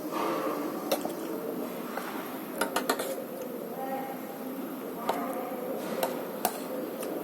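Cutlery clinking against plates while eating: scattered sharp clinks, with a quick run of three a little before the middle, over a low murmur of voices.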